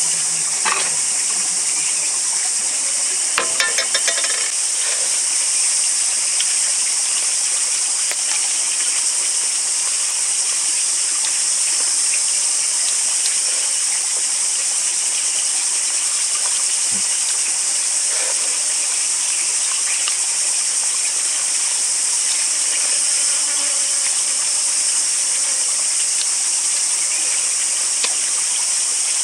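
A chorus of insects in the forest, a steady high-pitched drone with no break. A few brief clicks come about three to four seconds in.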